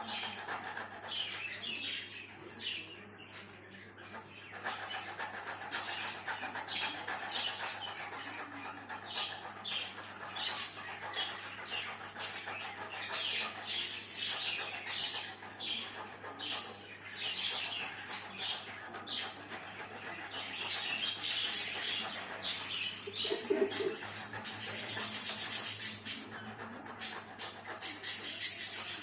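Pet parrot chirping in many short, repeated calls, louder and denser in the last several seconds.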